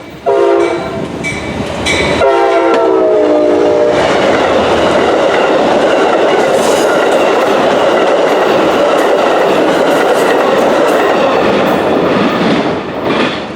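A passing train sounds its horn in short blasts, the pitch dropping on the last one as it goes by. Then the cars roll past loudly, wheels clattering on the rails, fading near the end.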